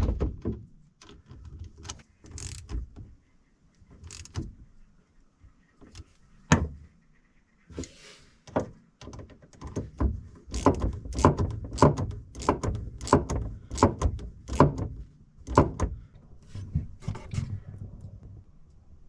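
A series of sharp clicks and knocks, scattered at first, then coming about twice a second for several seconds before thinning out.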